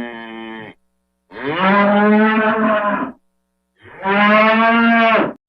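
Cow mooing: the end of one moo, then two long, steady moos with short pauses between them.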